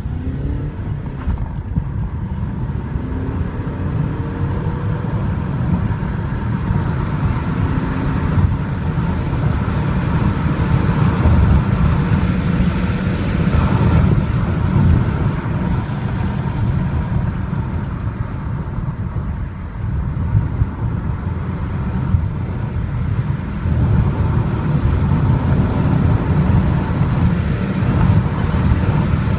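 Peugeot 607's 2.2 HDi four-cylinder turbodiesel pulling hard under full acceleration, under a heavy low rumble of road and wind noise. Its note rises faintly in pitch several times as it runs up through the gears.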